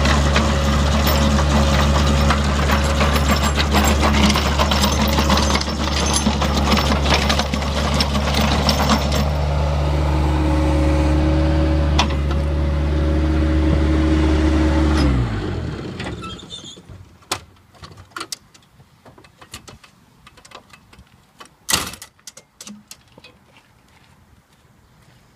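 Bobcat skid steer engine running hard, driving the asphalt cold planer, with a harsh rough noise over the engine for the first nine seconds. About fifteen seconds in the engine is shut off and winds down. After that come only scattered small clicks and one sharp knock.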